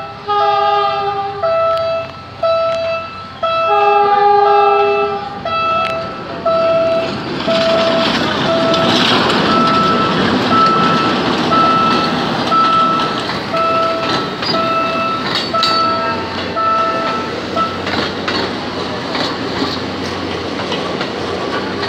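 A PNR diesel locomotive blows its horn twice in the first five seconds, over a level-crossing alarm that beeps steadily until near the end. From about seven seconds in, the locomotive and its passenger coaches rumble and clatter past close by.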